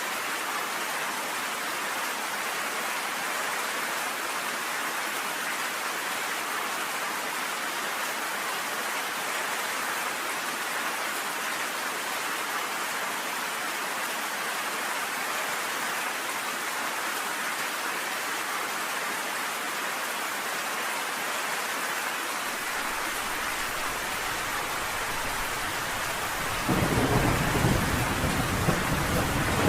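Steady rain pelting down on a cabin porch, an even hiss. Near the end a deep rumble of thunder comes in suddenly and grows louder.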